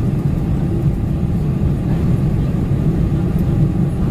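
Steady cabin roar of a Boeing 747-400 in flight, engine and airflow noise heard from inside the passenger cabin, deep and even without any change in pitch.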